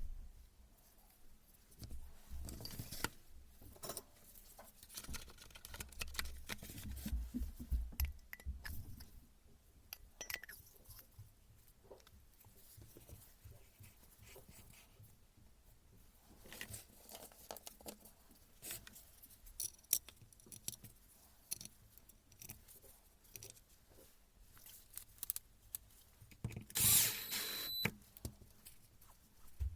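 Scattered clicks, knocks and scrapes of hand tools and metal parts being handled while a Hilti TE 76 ATC rotary hammer is taken apart for servicing, with a louder rattle and brief ring near the end.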